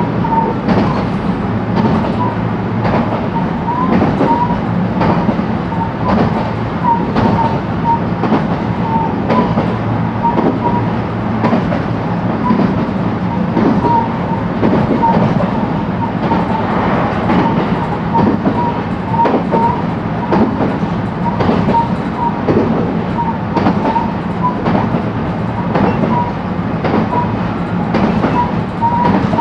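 JR West 223-series electric train running at speed, heard from inside the motor car: a steady rolling rumble and motor hum, with wheels clacking over the rail joints many times throughout.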